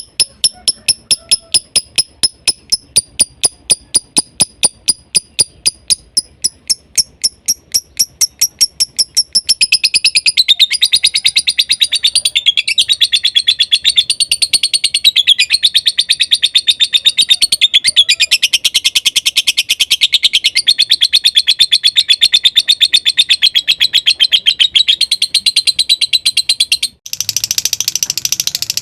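Lovebird singing in the rapid 'konslet' style. It starts as an even run of sharp, high chirps, about five a second, then from about ten seconds in runs into a faster, unbroken shrill chatter, with a brief break near the end.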